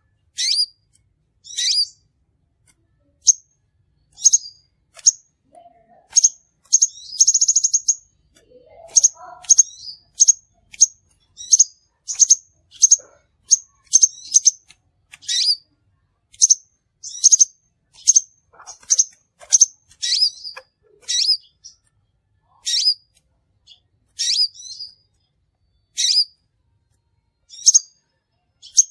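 Crimson sunbird calling: short, sharp, high chirps repeated about once or twice a second, with one brief buzzy trill about seven seconds in.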